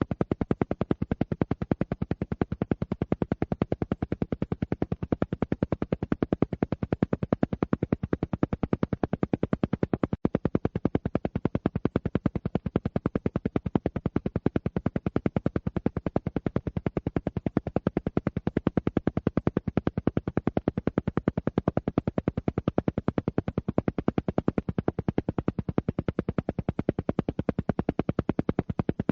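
Alpha-wave brainwave-entrainment track: a steady train of evenly spaced pulses repeating many times a second, without a break.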